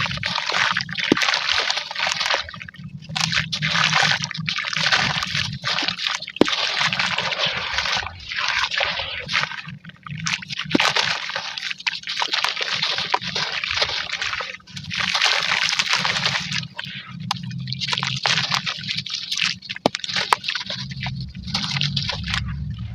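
Charcoal and brick chunks crumbling into water, played at double speed: repeated gritty, splashing bursts with occasional sharp cracks.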